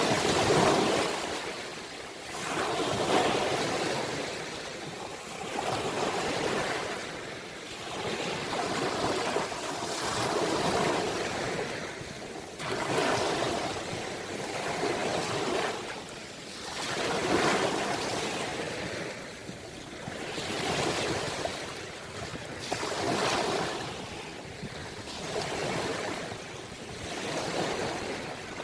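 Sea waves surging and washing in as a steady rush. The sound swells and fades about every two to three seconds.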